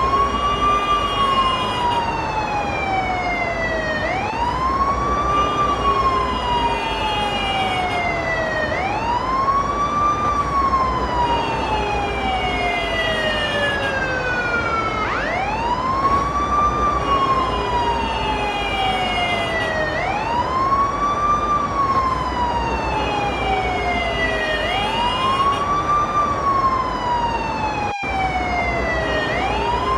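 Ambulance siren wailing: each cycle sweeps up quickly and then falls slowly, repeating about every four to six seconds, with a brief break near the end.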